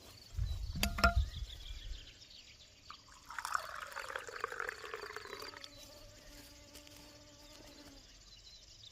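A low bump with two sharp clicks, the loudest sound, in the first two seconds. About three seconds in, liquid pours for a couple of seconds. Crickets chirp faintly throughout.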